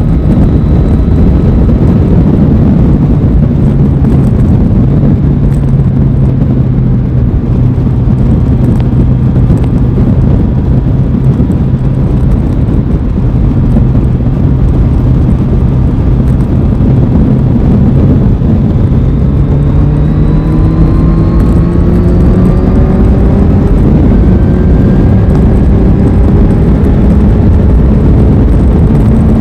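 Aprilia Tuono 660's parallel-twin engine on board while riding: a steady cruising note for most of the time, then about two-thirds of the way in the revs climb gradually as it accelerates. A heavy rush of wind and road noise lies underneath.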